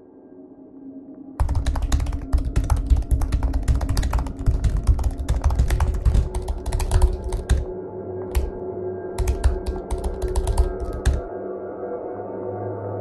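Typing on a computer keyboard: quick runs of key clicks that start about a second and a half in, pause briefly about eight seconds in, and stop about eleven seconds in.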